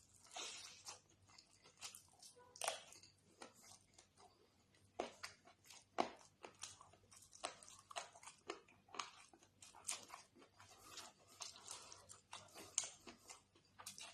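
Close-miked eating sounds: irregular wet mouth smacks, chewing and crunchy bites, a few of them louder.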